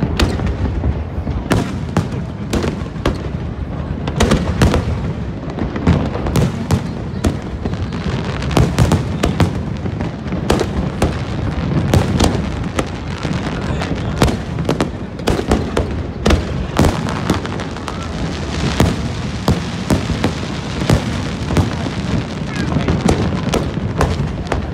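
Fireworks display going off without a break: a dense run of sharp bangs and crackles over a steady bed of low booms.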